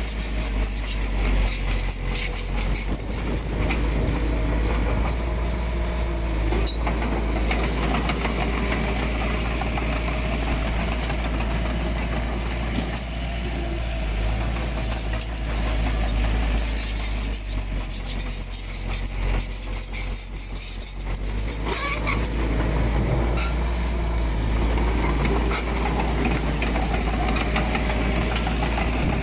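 Komatsu D20P crawler bulldozer's diesel engine running steadily, with bursts of clanking and rattling in the first few seconds and again about two-thirds of the way through.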